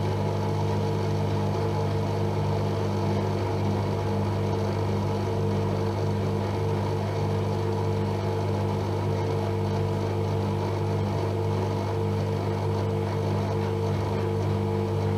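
AEG Öko-Lavamat Lavalogic 1600 front-loading washing machine running mid-cycle with a steady, even motor or pump hum.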